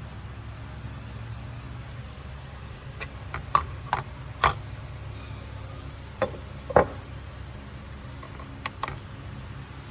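A steady low hum, with a scatter of sharp clicks and knocks in the middle stretch, three of them clearly louder than the rest.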